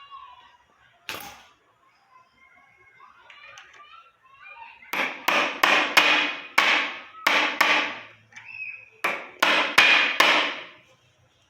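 Hammer blows driving a new bearing into a wheelchair wheel hub to seat it. One blow about a second in, then a quick run of about eight blows, a short pause, and four more.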